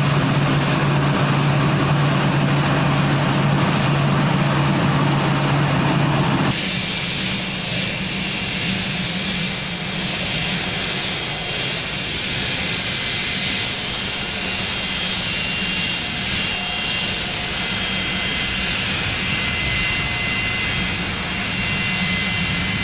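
Airliner jet engines running steadily. About six and a half seconds in, the sound changes abruptly from a strong low hum to a set of high, steady whining tones over a rushing noise.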